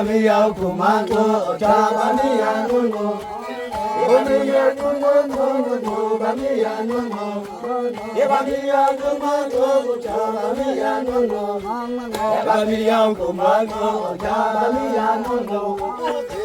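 Chant-like singing, the voices moving in short phrases over a steady held low note.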